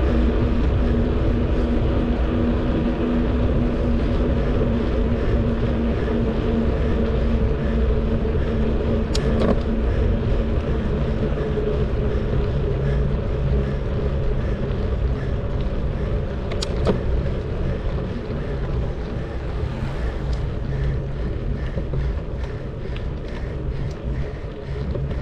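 Steady rush of riding a bicycle, with wind and tyre noise on the onboard microphone. A low hum runs through the first ten seconds or so and then fades. A sharp click comes about nine seconds in and another about seventeen seconds in.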